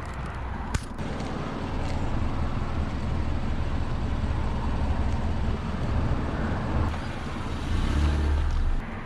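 Car engine idling, a steady low rumble that grows louder near the end and then drops off suddenly. A single sharp click a little under a second in.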